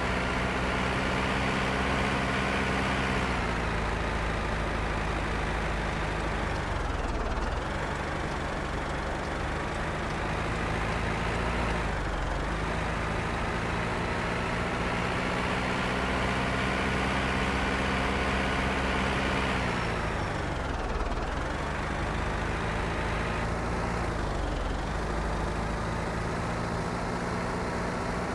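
MTZ-82 tractor's four-cylinder diesel engine running steadily under way. Its speed dips sharply and picks back up several times, as with a throttle lift or gear change.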